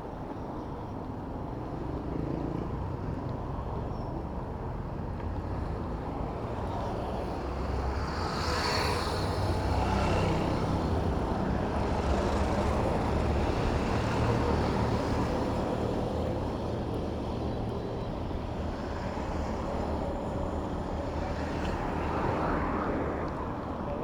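City road traffic: motor vehicle engines and tyre noise, swelling as vehicles pass close by between about eight and sixteen seconds in, and again briefly near the end.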